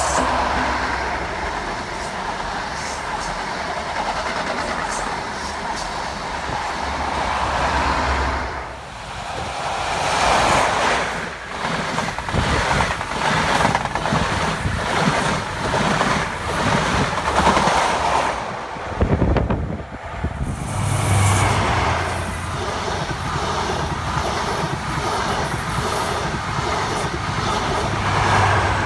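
A Class 43 HST diesel train passing close by at speed, starting with its leading power car. The Mk3 coaches clatter over the rail joints in a quick, steady rhythm, and the rear power car's engine passes near the end.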